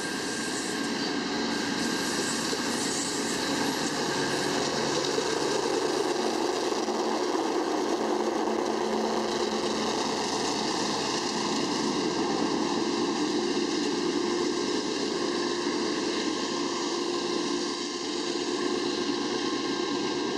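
Freight train passing close by: steady rumble and rattle of steel wheels on the rails from a string of hopper cars, with a Union Pacific diesel locomotive going by partway through.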